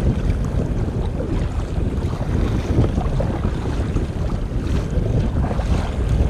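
Strong wind buffeting the microphone with a heavy, constant low rumble, over choppy lake waves splashing against a kayak in a windstorm.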